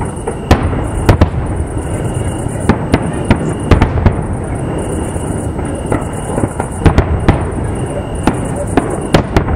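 Fireworks display: aerial shells bursting in a rapid, irregular run of sharp bangs, over a steady background of noise.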